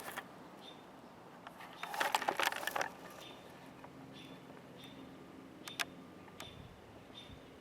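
A bird giving short, high chip calls about once a second. About two seconds in there is a brief burst of crackling noise, and near six seconds a single sharp click.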